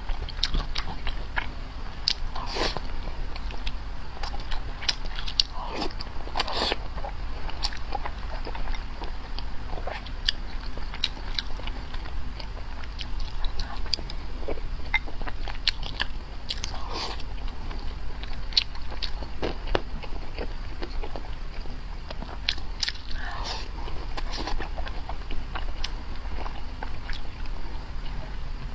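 A person eating close to the microphone: biting and chewing with many small wet mouth clicks and smacks coming irregularly throughout.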